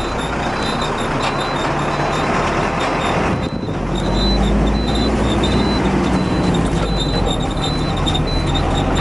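Tipper truck running on the road, heard from inside the cab: a steady engine rumble with road and cab noise. The engine briefly drops off about a third of the way through, then comes back louder.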